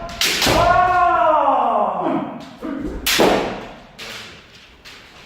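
Kendo sparring: a long kiai shout, held about two seconds and falling in pitch, with sharp strikes of bamboo shinai and stamping feet. Another hard strike comes about three seconds in, followed by a couple of lighter knocks.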